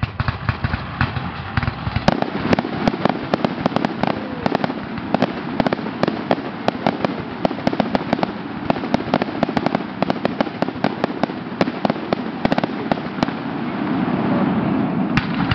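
Fireworks finale: a dense, rapid barrage of aerial shell bursts and crackling reports, many overlapping, growing a little louder near the end.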